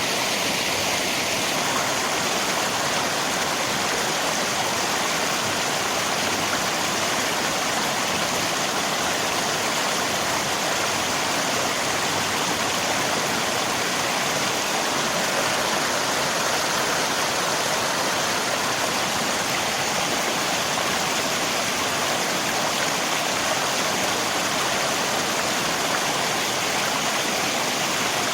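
Rain and a flowing river: a steady, even rush of water with no breaks or changes.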